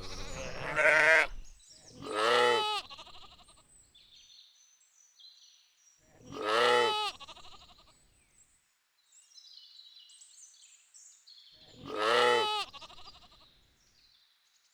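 Sheep bleating: four wavering bleats a few seconds apart, the first one rougher than the rest.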